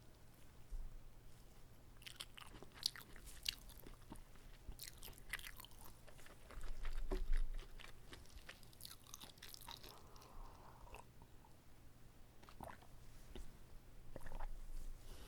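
Close-miked chewing and biting of a whole uncut gimbap (seaweed-wrapped rice roll), with sharp clicks and crackles in clusters. A low thump about seven seconds in is the loudest moment.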